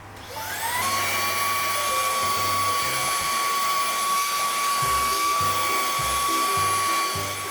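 Dreame Z10 Station cordless vacuum's motor spinning up, its whine rising over the first second, then running at a steady high whine.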